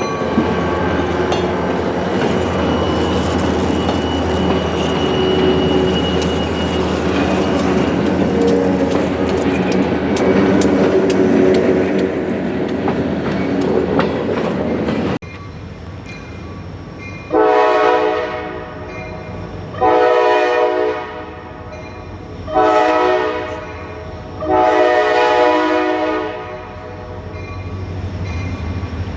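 Diesel freight train rolling past close by, wheels clicking over rail joints under a steady heavy rumble. After a sudden cut about halfway, a multi-tone locomotive air horn blows four blasts, long, long, short, long: the standard grade-crossing warning.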